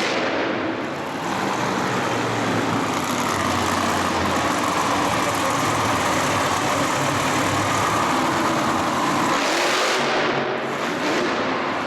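Loud engine noise from motorsport vehicles running, steady, with a brief swell about nine and a half seconds in.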